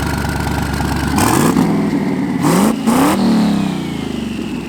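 LS V8 engine of a twin-turbo Mercedes E63 AMG idling, then revved: the revs climb a little over a second in, are blipped sharply twice around two and a half and three seconds in, and fall back toward idle.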